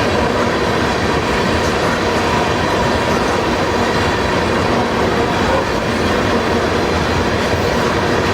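Tank cars of a crude oil train rolling past, a loud steady rumble and rattle of wheels on rail with faint steady ringing tones over it.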